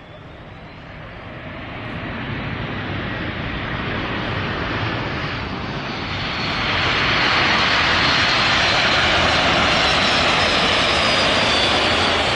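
Jet airliner's engines, a dense rush growing louder over the first several seconds and then holding loud and steady from about seven seconds in, with a thin high whine on top.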